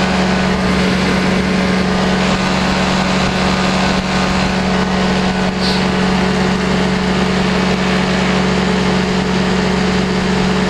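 Powered parachute's engine and propeller running at a steady cruise power in flight, an unbroken even drone.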